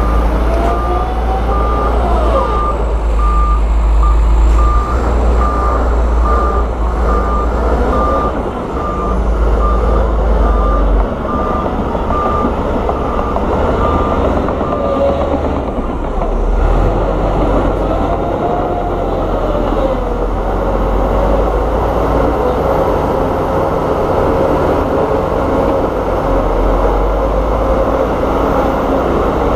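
Heavy diesel earthmoving machine running with a deep engine rumble, its reversing alarm beeping in a steady even rhythm until about halfway through, when the beeping stops and the engine carries on with a steady whine.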